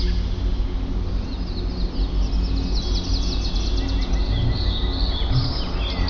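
Small songbirds chirping in quick series of short, high notes and trills, growing busier in the second half, over a steady low hum.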